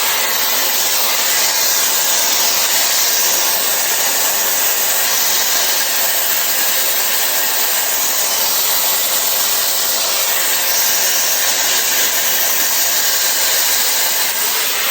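Shark FlexStyle air styler blowing a steady rush of air as it dries hair through a round brush attachment.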